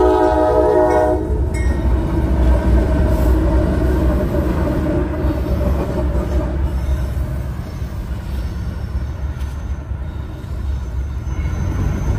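A locomotive horn chord cuts off about a second in. Then comes the steady rumble and rattle of a long freight train's cars rolling past, with a faint wheel squeal now and then.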